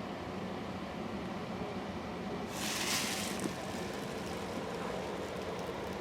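Tractor engine running steadily, with a burst of hissing lasting about a second, a little before the middle.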